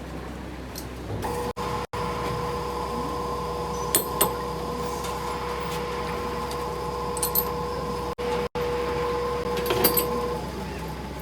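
A machine running with a steady pitched hum that starts about a second in and stops near the end, with a few sharp metallic clicks and taps over it.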